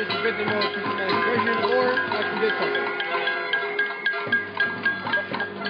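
Noise demonstration din: several musical instruments and noisemakers sounding at once in a jumble of overlapping tones and hits, with voices mixed in.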